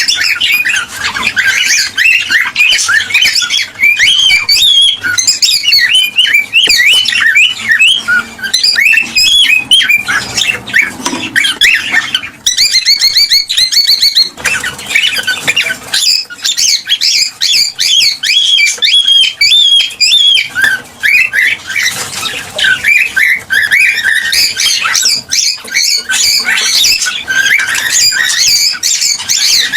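Cockatiels chirping and whistling without pause, many short rising and falling calls overlapping each other, with a rapid buzzy trill about halfway through.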